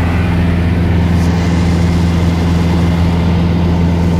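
Cessna 172's piston engine and propeller droning steadily, a deep even hum with no change in pitch.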